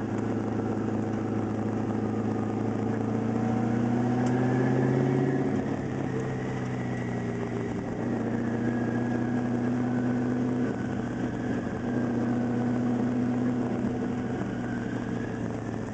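Twin-turbo LS1 V8 engine in a Mazda RX-7 running steadily under light load while the car drives. Its note builds slightly, eases off about five seconds in, then holds steady.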